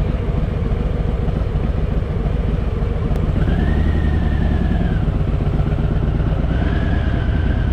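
Harley-Davidson Fat Boy's V-twin engine running at low speed with a steady low-pitched beat, swelling slightly about halfway through. A thin high tone comes in twice over it.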